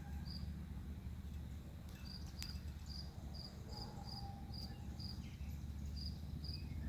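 Cricket chirping outdoors: short high chirps about three a second, pausing now and then, over a low steady hum, with a single sharp click about two and a half seconds in.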